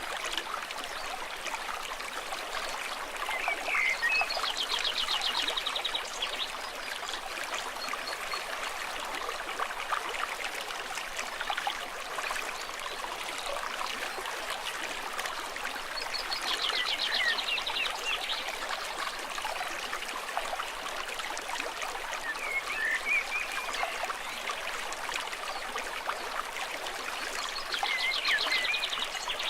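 A stream trickling and babbling steadily. Three times, about every twelve seconds, an animal gives a rapid high pulsed trill, with a few short chirps between.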